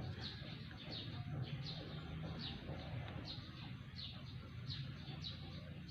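A bird chirping over and over, short falling chirps a bit more than once a second, over a low steady hum.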